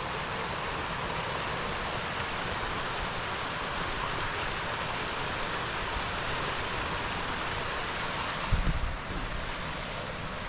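Steady rushing of a river's flowing water, an even noise with no pauses. About eight and a half seconds in, a brief low thump or buffet sounds over it.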